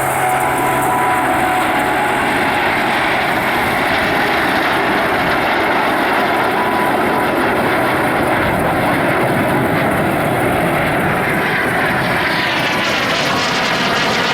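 Jet aircraft flying a display pass: a steady rushing engine noise that swells near the end and takes on a sweeping, phasing tone as the aircraft passes.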